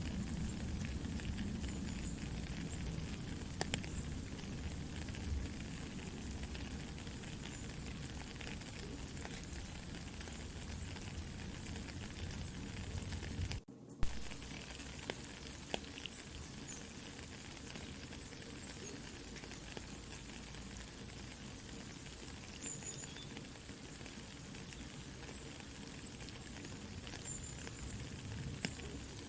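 Soft steady rain with a campfire crackling and popping. The sound cuts out for a split second about halfway through, then a sharp pop.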